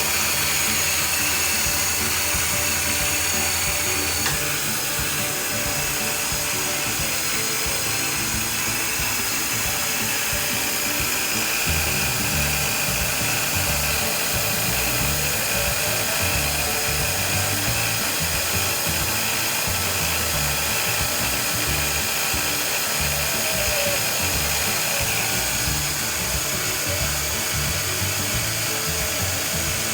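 CNC milling spindle running with a steady high-pitched whine, with a fainter tone gliding up and down a couple of times midway. Background music plays underneath.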